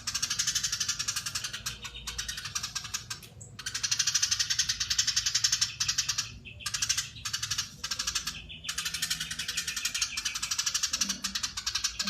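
Eurasian tree sparrow giving a long, fast chatter of rapid high notes, broken by a few short pauses.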